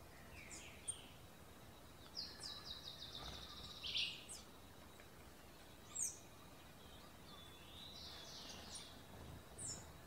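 Wild songbirds calling: a quick trill of short high notes about two seconds in, ending on a louder note, a second shorter trill near the end, and single sharp chirps between, over faint outdoor background noise.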